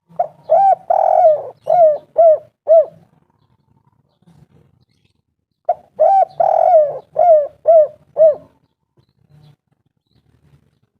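Spotted dove (tekukur) cooing: two phrases a few seconds apart, each a run of rounded, arching coos, with one longer note early in each phrase.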